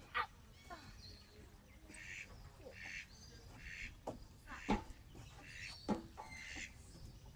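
Birds calling, a series of short calls about one a second. There are also three sharp knocks, the loudest sounds, one near the start and two about two-thirds through.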